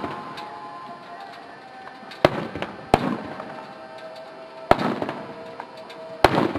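Aerial fireworks shells bursting: four sharp bangs, about two, three, four and a half and six seconds in, each trailing off in an echo.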